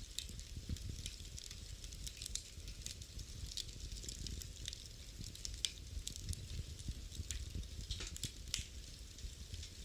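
Wood fire burning in a fireplace, with frequent irregular sharp crackles and pops over a steady low rumble.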